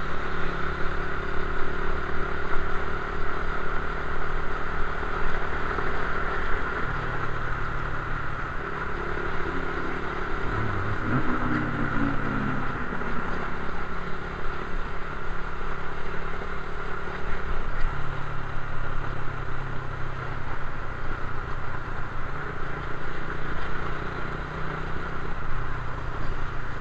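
Suzuki Raider 150 carburetted motorcycle engine running while riding on the road, with steady wind and road noise. The engine note shifts several times as the rider works the throttle, with a brief dip and rise in pitch near the middle.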